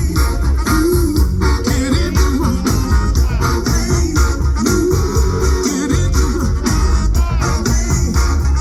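Live band playing an upbeat pop song, led by guitar over a steady drum beat.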